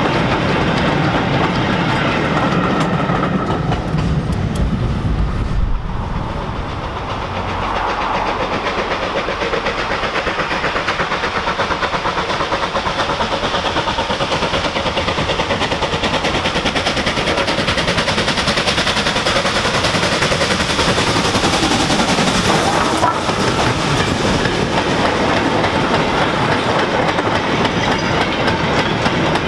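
A steam-hauled mixed freight train running past: its goods wagons rattle and clatter over the rail joints. About six seconds in the sound breaks and changes, and the train builds up again and passes, its wagons clattering by close at hand.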